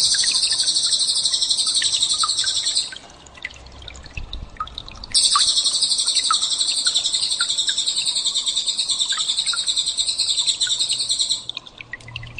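Recorded songbird giving a loud, rapid, high-pitched trill of the 'tembakan' type used as a masteran training song for white-rumped shamas. The trill lasts about three seconds, stops for about two seconds with faint scattered chirps behind it, then starts again and runs about six seconds.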